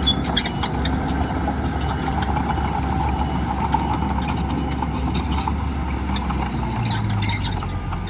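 Heavy diesel engine of earthmoving machinery running steadily. Its low note shifts about seven seconds in, and a few short clicks and clanks sound over it.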